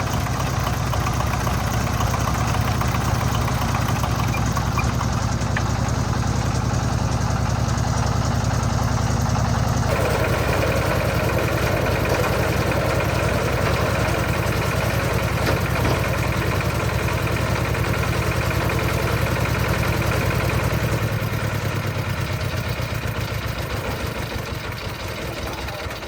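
Engine-driven concrete mixer running steadily. About ten seconds in a denser churning layer joins the engine drone, and over the last few seconds the engine note drops and the sound fades away.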